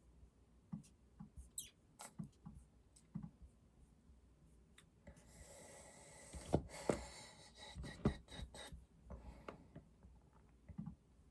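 Scattered light clicks and taps, with a few seconds of hiss about halfway through that holds several sharper knocks.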